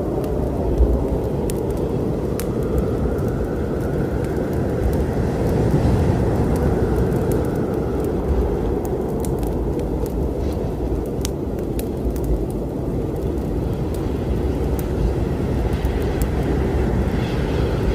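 Storm ambience: a steady low rumble of wind and rain, with the sharp crackles and pops of a wood fire burning scattered across it.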